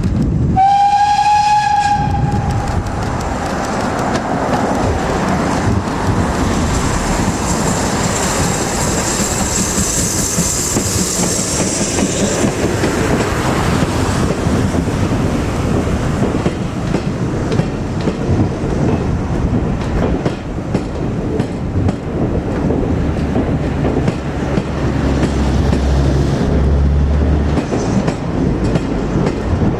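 A steam locomotive's whistle sounds once, briefly, then the train runs past with loud, steady running noise of the locomotive and carriages on the rails.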